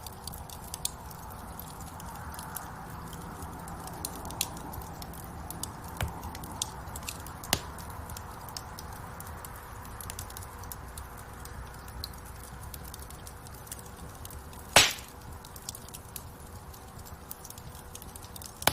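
Wood fire crackling in a fireplace: a steady hiss of flames under frequent sharp snaps, with one much louder pop about fifteen seconds in.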